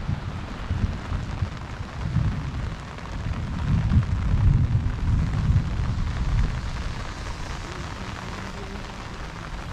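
Heavy rain falling in a steady hiss, under a deep, uneven rumble that swells from about two seconds in and eases after about six seconds.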